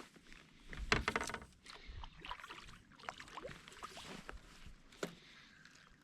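Clattering and scattered knocks of gear being handled aboard a fishing kayak, with a quick rattling burst about a second in and a sharp knock near the end.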